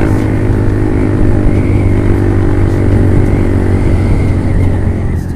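Honda CB150R single-cylinder engine through an aftermarket Lone Rider exhaust, heard while riding. The revs drop at the start and then hold steady, and the note eases off near the end as the throttle closes.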